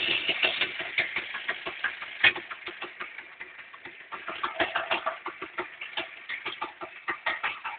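Vyatka scooter's two-stroke engine, driving a homemade winch, idling with a rapid, slightly uneven popping beat that eases off a little midway and then picks up again.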